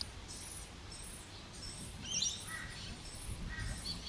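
Birds chirping and calling in short, quick high notes, a cluster of them about two seconds in, over a low background rumble.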